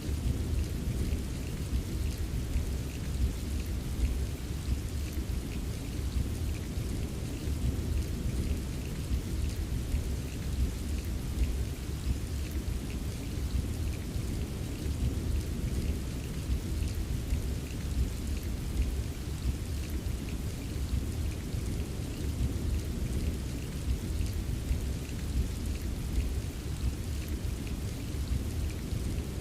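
Steady rain ambience: a continuous hiss of rain with a deep, even low rumble underneath and faint scattered patters of drops.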